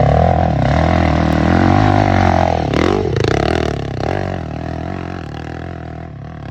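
Enduro dirt bike engine revving hard under load, its pitch rising and falling with the throttle, then slowly getting quieter over the last few seconds.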